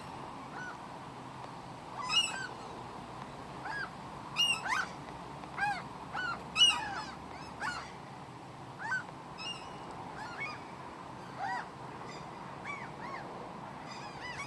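A flock of seagulls calling: many short, arching cries from several birds, overlapping and coming about one or two a second, the loudest a little past two seconds in and past the middle.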